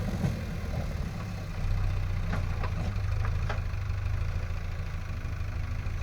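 Diesel engine idling steadily, with three or four light clicks about halfway through.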